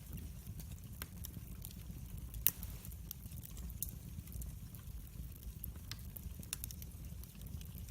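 Wood fire in a fireplace crackling, with a steady low rumble of flames and scattered sharp pops and snaps. One pop about two and a half seconds in is louder than the rest.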